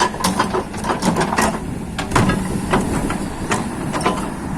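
An engine running steadily under irregular sharp metallic knocks and clanks, several a second at times.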